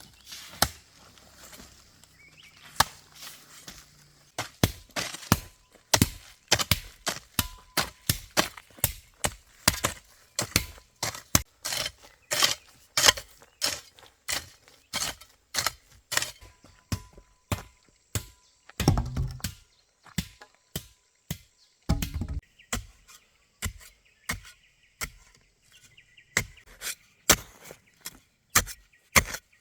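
Repeated chopping strikes of a blade cutting bamboo, about two a second, with two heavier, deeper thuds about two-thirds of the way through.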